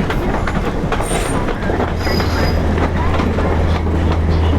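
Passenger train coaches rolling into a station over rail joints, with a run of clicks and brief high-pitched squeals from the wheels and brakes. A steady low hum sets in about a third of the way through.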